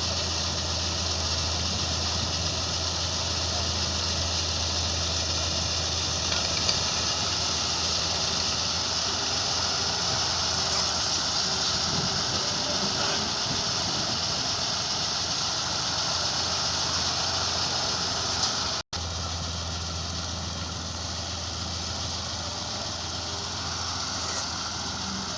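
Heavy machinery engines running steadily under a constant mechanical noise; the sound drops out for an instant about three-quarters of the way through and resumes much the same.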